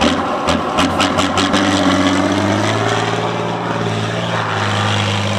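Heavy trial truck's diesel engine pulling under load, its pitch climbing about two seconds in and then holding steady, with a quick series of sharp knocks in the first second and a half.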